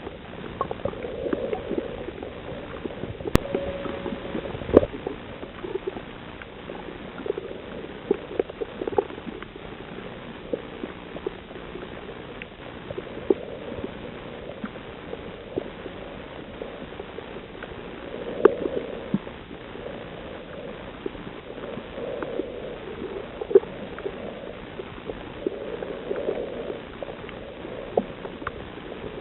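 Underwater sound on a coral reef: a steady muffled rush of water that swells every few seconds, with many scattered sharp clicks and crackles.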